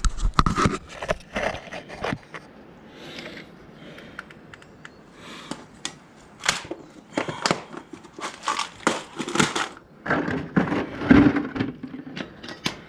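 Irregular clicks, knocks and rattles of metal brake linkage parts being handled and worked into place by hand, with some rustling between them.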